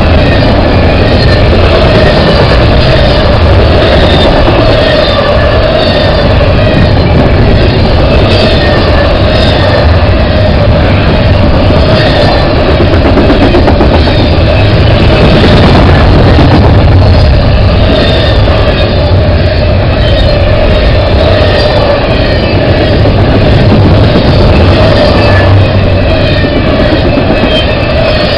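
CSX intermodal freight train's double-stack container cars rolling past close by: a loud, continuous rumble and rattle of steel wheels on the rails, with a steady high whine running through it.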